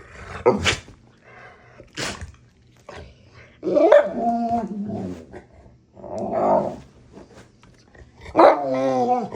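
A big mastiff-mix dog vocalizing in play: a series of drawn-out growling barks and yowls, with two short sharp noisy bursts in the first two seconds.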